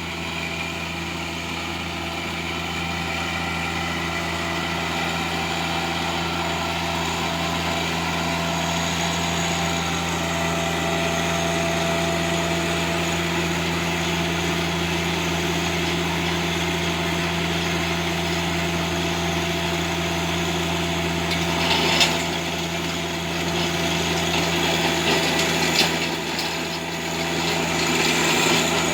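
Tractor engine running steadily while tilling hard, compacted ground. There is a sharp knock about 22 seconds in and a few smaller ones near the end.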